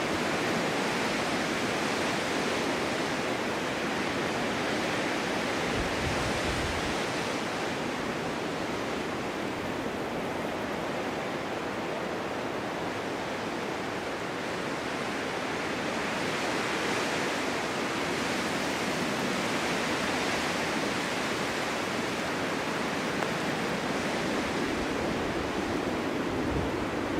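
Winter wind blowing steadily through a forest, a continuous rushing that slowly swells and eases, with a brief low rumble about six seconds in and again near the end.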